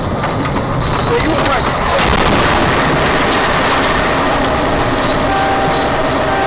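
Dash-cam recording of steady engine and road noise from a moving car. A steady tone, likely a horn, sounds from about five seconds in.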